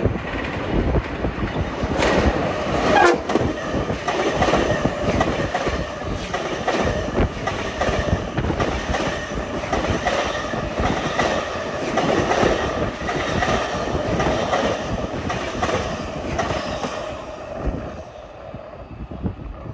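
Long Island Rail Road electric multiple-unit commuter train passing close by at speed, its wheels clicking over the rail joints in a steady clickety-clack. The sound dies away near the end.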